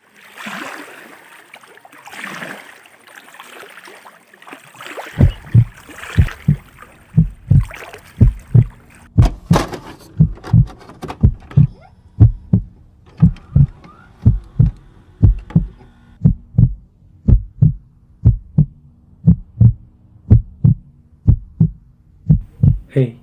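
Heartbeat sound effect: deep lub-dub thumps, about one pair a second, starting around five seconds in after a few seconds of airy whooshing.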